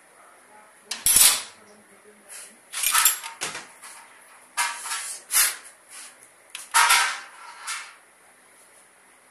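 Metal parts and hand tools clinking and clattering as they are handled, about seven sharp knocks spread over several seconds, the loudest about a second in.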